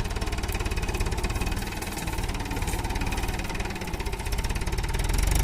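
Mahindra diesel tractor engine running steadily, with a rapid, even beat.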